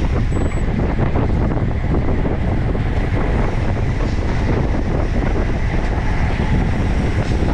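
Steady rush of wind buffeting the microphone while riding a road bicycle at speed, with road noise underneath.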